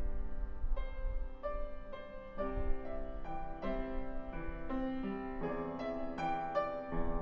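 Piano played slowly and gently, a soft melody of single notes over sustained lower chords.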